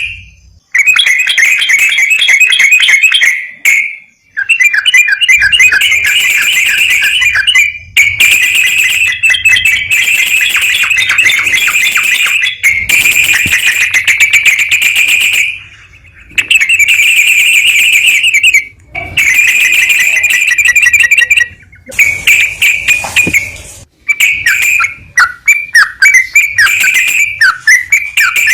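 Recorded songbird song played as a stimulation track for a yellow-vented bulbul (trucukan): long, rapid, buzzy trills of a few seconds each with short pauses between, breaking into shorter chirping phrases near the end.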